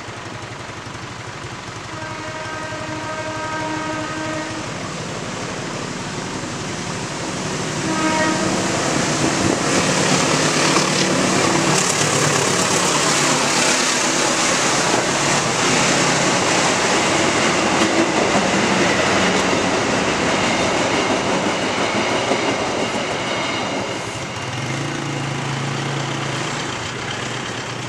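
Train horn sounding a long blast, then a short one, followed by the train passing over the level crossing with loud, steady wheel and rail noise that eases off near the end.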